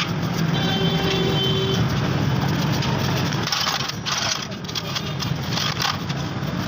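Small metal carburettor parts, the jets of a CD70 carburettor, clicking and clinking as they are washed in petrol, a few short clicks in the second half. Underneath runs a steady low engine-like hum.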